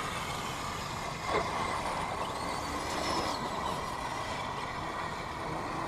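A radio-controlled scale crawler truck's electric motor and geared drivetrain running and whining, its pitch rising and falling a few times as the throttle changes.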